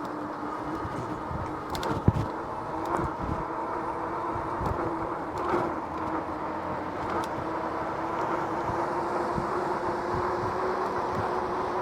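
An electric bike being ridden: a steady hum from the rear hub motor over the rumble of the tyres rolling on pavement. There is a sharp knock about two seconds in and a few smaller rattles, as the bike jolts over bumps.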